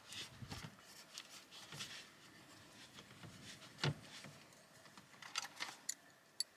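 Plastic dashboard trim being handled and fitted, heard as scattered light rubbing and clicks, with a louder knock about four seconds in and a sharp click near the end.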